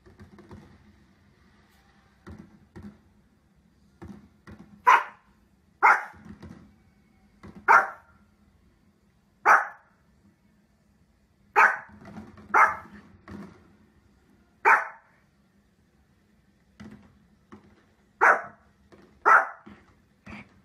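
Small spitz-type dog barking: about ten sharp single barks a second or two apart, starting about five seconds in, with a pause of a few seconds near the end.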